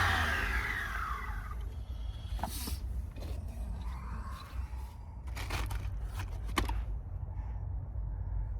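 A few short scrapes and knocks of work on a car body over a steady low hum, after a sound that falls in pitch fades out at the very start.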